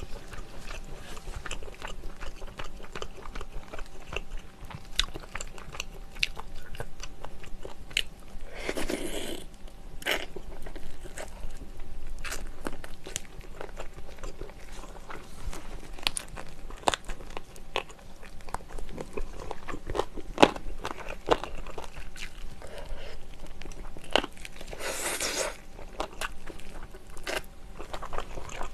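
Close-miked eating sounds of a person eating soy-braised chicken (jjimdak) by hand: chewing and biting with many small sharp clicks, and twice a longer, louder rush of noise.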